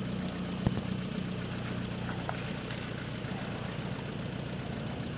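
4x4's engine running steadily at low revs as the vehicle creeps down a bank into flood water. A single sharp click comes less than a second in.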